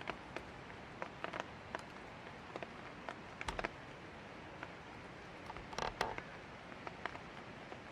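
Light rain: a steady hiss with scattered drops tapping irregularly on a hard surface close to the microphone. There are a few louder clusters of taps, the loudest a little past halfway.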